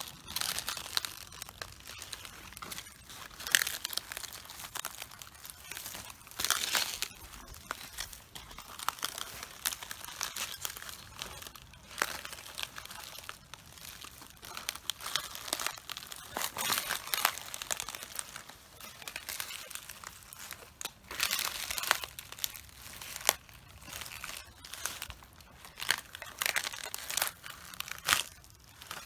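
Cabbage heads and leaves crunching and crackling under footsteps, with irregular crushing bursts every second or two.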